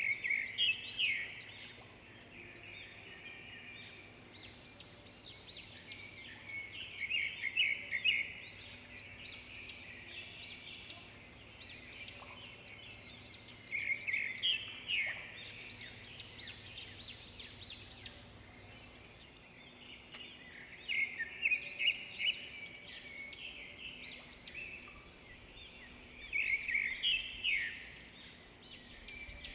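Rainforest birdsong: bursts of rapid, high chirping and whistled calls that come back about every six to seven seconds over a faint, steady background.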